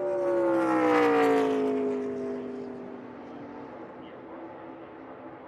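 NASCAR Cup Series stock car's V8 passing at speed, loudest about a second in, its engine note falling as it goes by and fading away.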